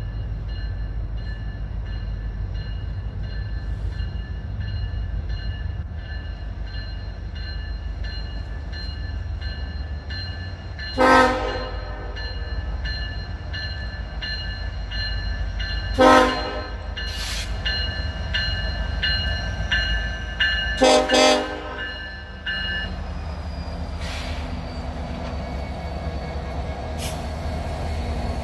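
Freight locomotive horn sounding short blasts over the steady rumble of a passing train: three times, the last a quick double blast.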